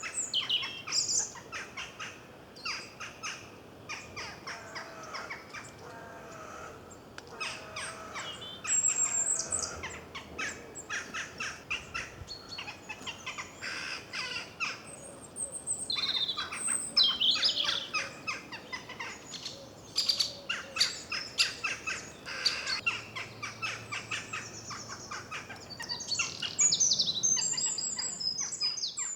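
Small birds chirping and singing: a busy mix of rapid, high chirps and song phrases that runs on without a break.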